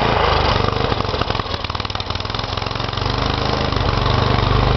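Gasoline snow blower engine running, its note dropping and quieting about a second in, then picking back up to a steady run.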